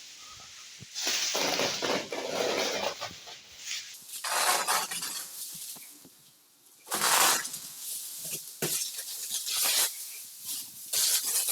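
Plastic dust-screen film being pulled down and crumpled, rustling and crackling in irregular bursts.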